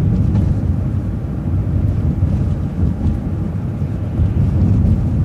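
City transit bus under way, a steady low rumble of engine and road noise heard from inside the bus.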